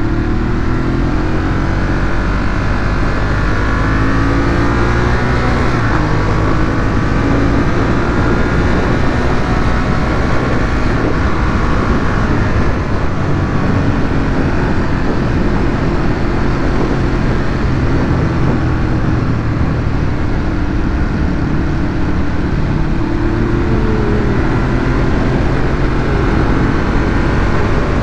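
Ducati Monster 821's L-twin engine running through its stock exhaust while being ridden, its pitch rising and falling as the rider accelerates and eases off, over a steady low rumble.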